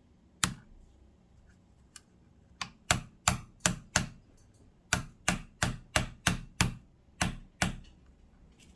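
Light, sharp taps of a magnetic-headed tool on a part inside a Kenmore sewing machine, tapping it down to seat it on the zigzag cam gear assembly. One tap comes about half a second in, then about a dozen quick taps at roughly three a second in two runs.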